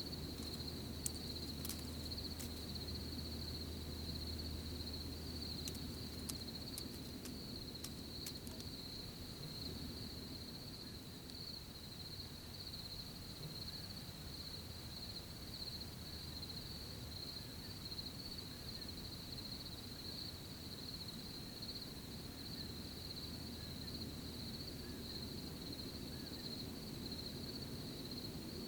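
Crickets chirping in a steady, unbroken high-pitched chorus over a low background rumble, with a few faint sharp ticks in the first nine seconds or so.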